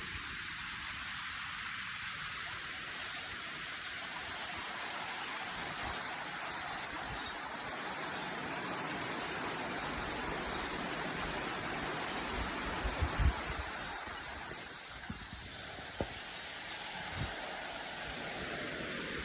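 Waterfall water rushing steadily, with a few brief low thumps about two-thirds of the way through.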